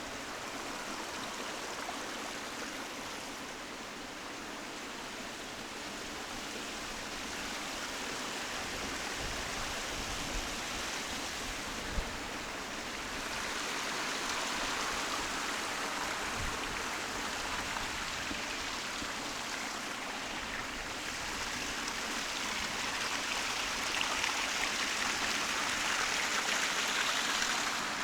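A hill stream running: a steady rushing of water that grows a little louder in the second half. There is a brief sharp knock about twelve seconds in.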